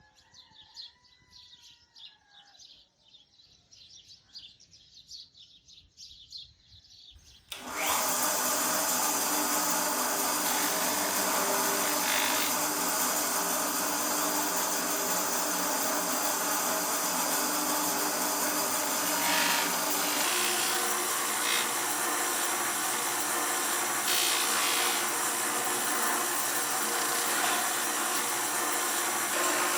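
Faint bird chirps, then about eight seconds in a power tool starts abruptly and runs steadily at full speed, its tone shifting slightly around twenty seconds in.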